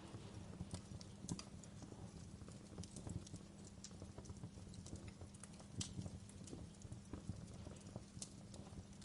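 Wood fire burning in a fireplace: irregular crackles and sharp pops over a low, steady rumble of flame, with a louder snap about six seconds in.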